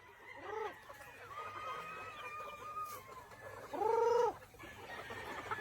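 Chickens on a breeding farm calling: a short call, a long drawn-out crow further off, then a louder short call about four seconds in.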